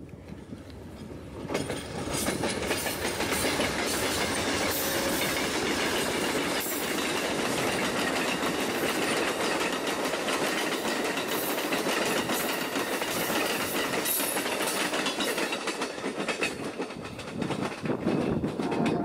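Amtrak Southwest Chief passenger train rolling past at close range, its wheels clattering over the rail joints. The noise rises sharply about a second and a half in, holds steady, then dips and swells again near the end.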